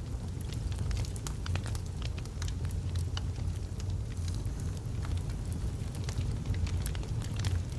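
Wood fire burning in a fireplace: a steady low rumble of flames under frequent sharp, irregular crackles and pops from the burning logs.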